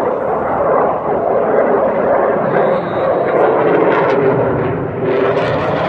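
F-16A fighter jet in flight, its jet engine making loud, steady noise that grows brighter and hissier near the end.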